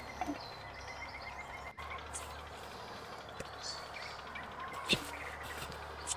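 Outdoor rural ambience: faint bird chirps over a steady background hiss, with a few scattered sharp clicks, the loudest about five seconds in.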